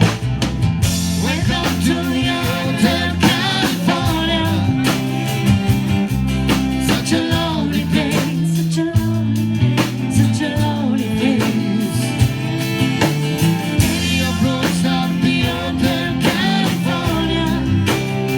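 A song with a sung voice over guitar and drums, played at a steady, lively beat.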